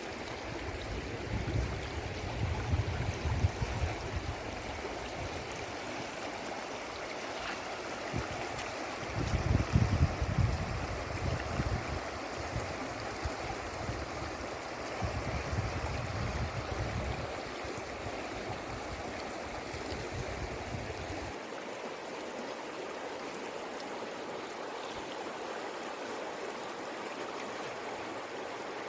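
The Jayanti River rushing steadily over its stony bed. Underneath, a low rumble comes and goes, then stops about twenty seconds in.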